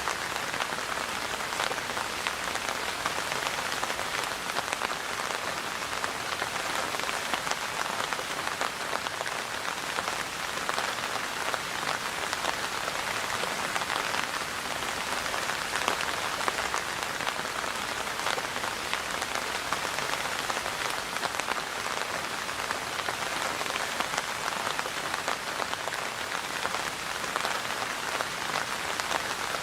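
Steady rain falling: a continuous, even hiss made of many small drop hits, with no let-up or change.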